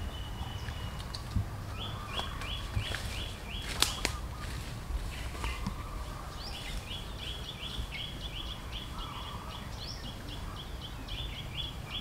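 A bird calling in rapid series of short, repeated chirps, about four a second, in runs that stop and start, over a low outdoor rumble. A single sharp click comes about four seconds in.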